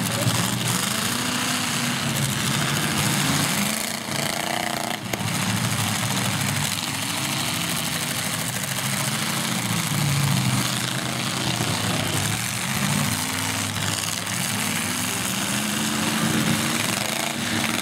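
Several demolition derby cars' engines running hard, revving up and down as the cars race and manoeuvre on the dirt, several engine pitches rising and falling at once.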